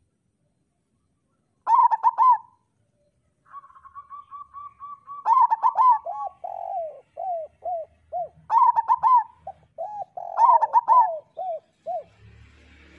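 Zebra doves (perkutut) cooing: four short rolling phrases of clustered coo notes come a few seconds apart, over a steady series of short, lower single coos.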